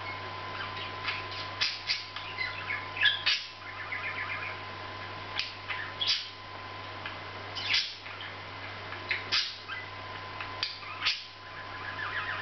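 Budgerigar chatter while half asleep: short sharp chirps scattered through, with a few stretches of soft warbling.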